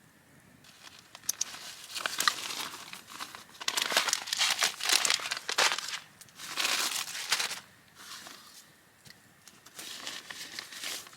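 Crinkly packaging being handled: irregular bursts of crinkling and rustling with some tearing, loudest in the middle and softer near the end.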